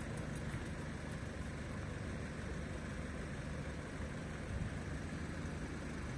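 Steady low hum of road vehicle engines idling.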